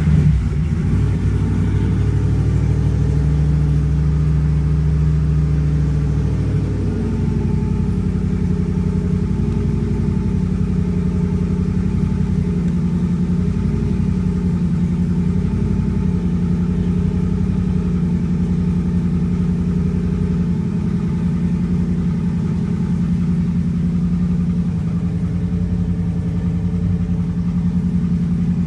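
Turbocharged Chevrolet Camaro engine idling just after a cold start. Its note shifts about seven seconds in, then it idles steadily.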